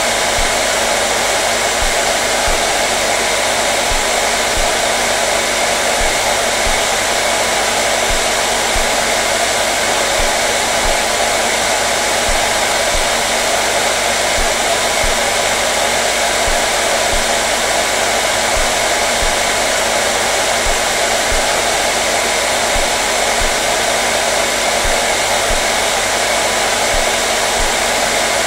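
Electric hair dryer running steadily on one setting, an even rushing of air over a motor hum with no change in speed.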